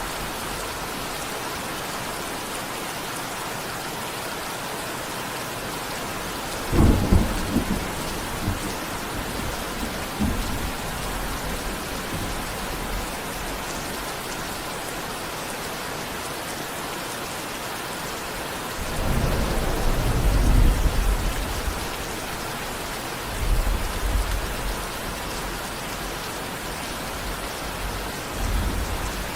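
Steady heavy rain with thunder rolling through it: a sudden clap about a quarter of the way in, a long rumble just past the middle, and two shorter rumbles near the end.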